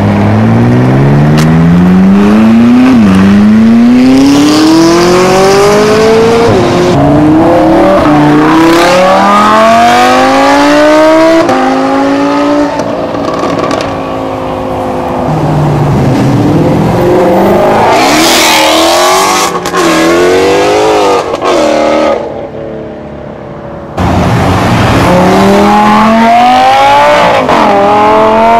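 Supercar engines revving hard as several cars accelerate away in turn: each engine note climbs steeply through a gear, then drops sharply at the upshift and climbs again. Partway through there is a short hiss, and the sound nearly cuts out for a couple of seconds before another car revs up.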